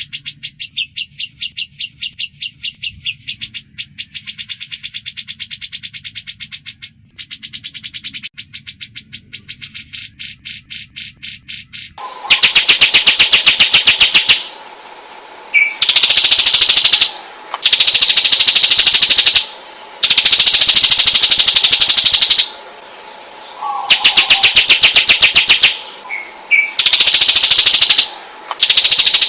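Songbird recording of fast, buzzy trills repeated almost without pause. About twelve seconds in it switches to a much louder recording of rapid rattling trills in bouts of about two seconds with short pauses between them: bird-song 'masteran' played to train white-rumped shamas.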